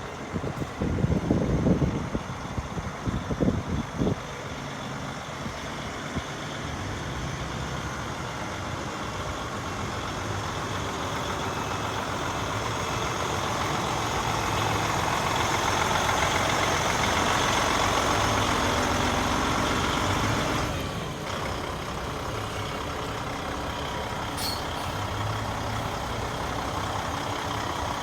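Kenworth T660 truck tractor's diesel engine running, swelling gradually louder and then dropping back abruptly to a steady run. A few uneven low thumps come in the first few seconds.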